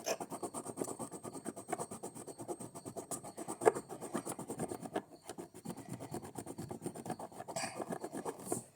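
Quick, repeated back-and-forth scratching strokes of a pencil colouring in on paper or card, several strokes a second, pausing briefly about halfway.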